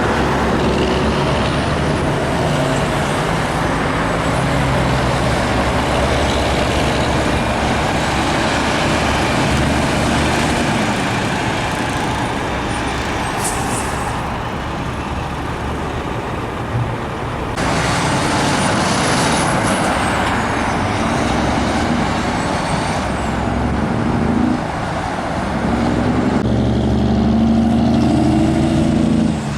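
Heavy diesel trucks running past on a highway: engine drone and tyre noise. The sound changes abruptly twice, and near the end a truck engine is heard more closely.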